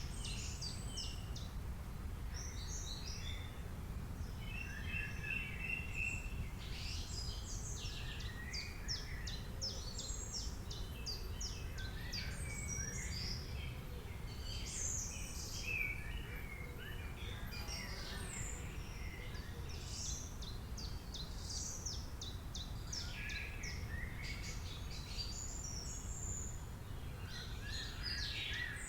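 Several birds singing and chirping at once, with quick repeated chirps and trills overlapping and never pausing for long, over a steady low rumble.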